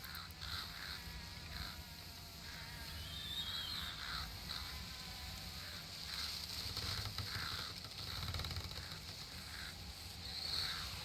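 Summer nature ambience: a steady high insect drone with short bird chirps coming every second or so over a low rumble.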